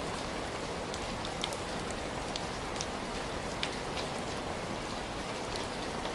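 Heavy rain falling steadily, a dense even hiss with scattered sharper drops ticking close by.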